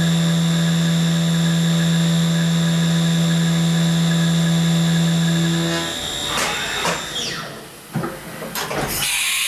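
Haas VF-2B CNC milling machine spindle running with a steady whine and hum while a 90-degree end mill chamfers a brass bar, stopping abruptly about six seconds in. A few mechanical clunks follow, then a short burst of hissing air near the end.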